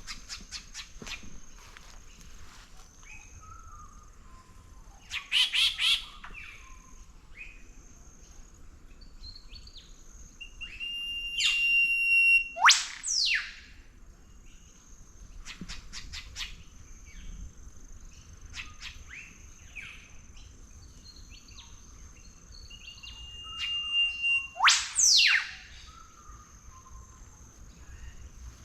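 Wild birds calling in garden bushland. Twice, a held high whistle is cut off by a loud, sharp downward whip-crack, with scattered chirps between.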